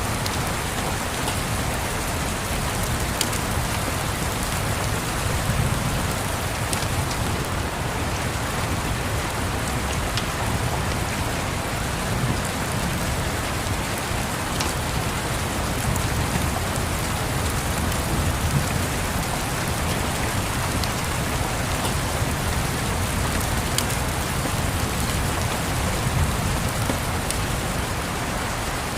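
Steady rain with a low, uneven rumble underneath and a few faint sharp clicks scattered through.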